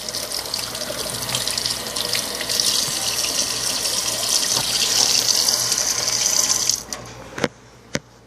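Water running from a sink tap during hand-washing; the tap is turned off with a sudden stop about seven seconds in, followed by a couple of sharp clicks.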